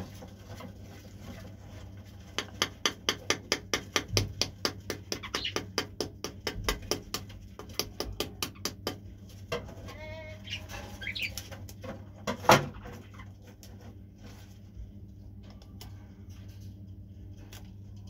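Bird sounds: a fast run of short, sharp clicking chirps, about six a second, lasting several seconds, then a short warbling call about ten seconds in and one loud sharp click a little after.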